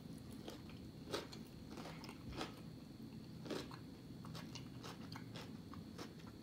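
A person chewing food with her mouth closed, with a few sharp crunchy clicks, the clearest about a second in and again about three and a half seconds in. A faint steady high whine sits underneath.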